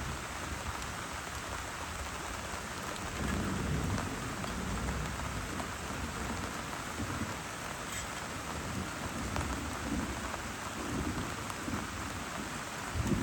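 Heavy rain falling steadily, with low thunder rumbling from about three seconds in.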